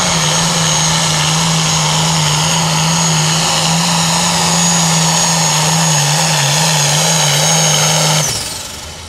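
International pro farm pulling tractor's diesel engine running flat out under load down the track, a steady drone with a high whistle riding over it. The sound drops away abruptly about eight seconds in.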